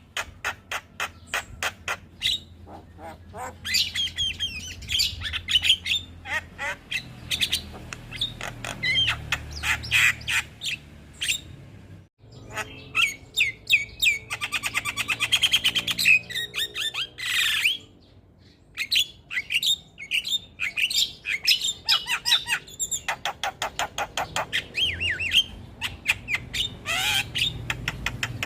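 Javan myna (jalak kebo) singing a long, fast chattering song: rapid clicks and rattles mixed with harsh squawks and short whistled notes, in phrase after phrase. The song breaks off briefly about 12 s in and again near 18 s before carrying on.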